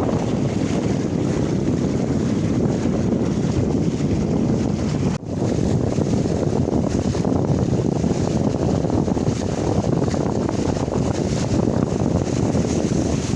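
Strong wind buffeting the microphone aboard a small sailing catamaran under sail in a force-5 wind (about 10 m/s), a loud, steady rushing noise with water sounds from the boat under way. It dips sharply for a moment about five seconds in.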